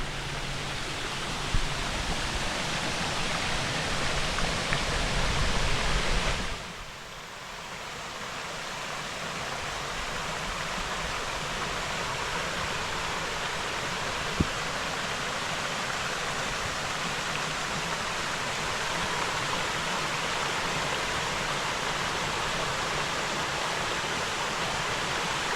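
Waterfall, a steady rush of falling water. For about the first six seconds a low rumble of wind on the microphone lies under it; then it changes abruptly to a cleaner, even rush, with one short click midway.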